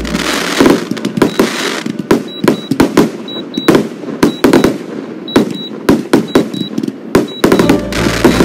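Fireworks display: a rapid, irregular barrage of sharp bangs and crackles, several a second. Music with a steady bass comes back in near the end.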